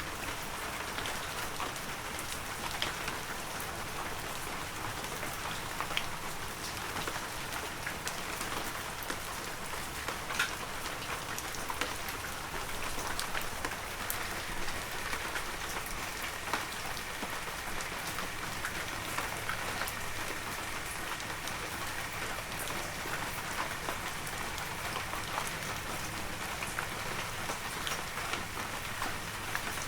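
Heavy rain falling steadily: a dense, even hiss scattered with the ticks of individual drops.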